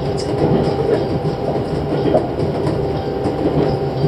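Tobu 6050 series electric train running, heard from inside the carriage: a steady running noise of wheels on rail with light, irregular clicks.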